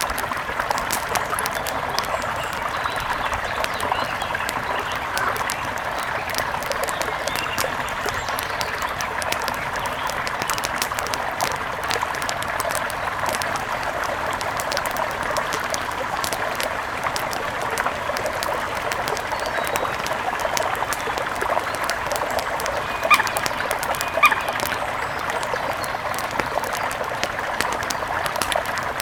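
Steady rush of a mountain river overlaid with the dense crackling and popping of a wood fire, with two sharper clicks about a second apart near the end.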